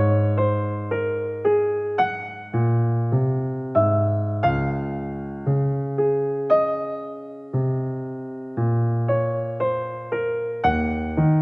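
Solo electric piano playing slow chords over bass notes, each struck chord decaying before the next.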